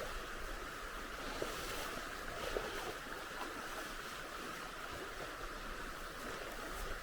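Steady rushing of a river flowing, with a few faint ticks.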